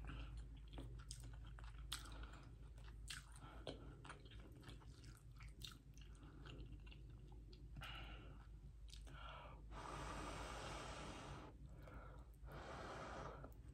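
Close-miked chewing of soft baked spaghetti squash with melted cheese, with small wet mouth clicks. Two longer stretches of soft hiss come about ten and twelve and a half seconds in.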